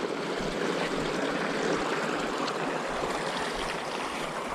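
Steady rushing of flowing water, like a stream, with a few faint ticks over it.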